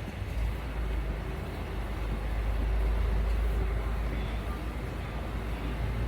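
Road traffic: a low rumble that swells to a peak about halfway through and then eases, like a vehicle passing.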